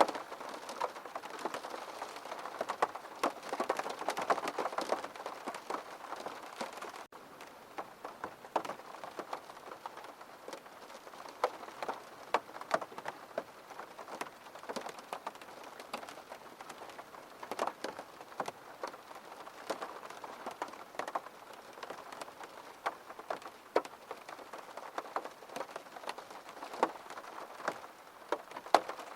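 Steady rain falling, many distinct close drop hits over an even hiss. A momentary dropout comes about seven seconds in, after which the rain is slightly quieter.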